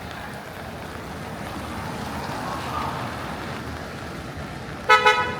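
Steady hiss of rain and tyres on a wet city street, swelling a little midway. Near the end comes a brief, loud blast at one steady pitch.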